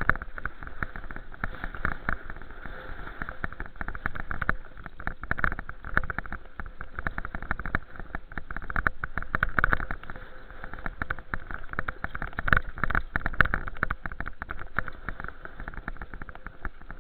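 Riding a bicycle with a camera on board: a steady rush of air over the microphone, broken by many irregular knocks and rattles.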